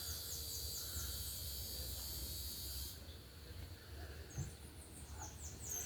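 Insects buzzing steadily in a high chorus that stops about halfway through, with runs of short, high, falling chirps near the start and again later.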